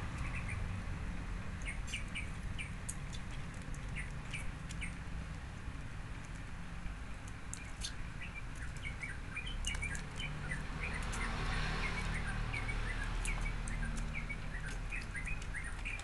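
Small birds chirping in short, repeated calls, with scattered light clicks and taps over a steady low hum.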